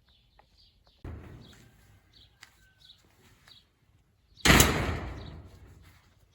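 Two bangs, each dying away over a second or so. The first, about a second in, is lighter; the second, past four seconds, is much louder. Faint bird chirps run behind them.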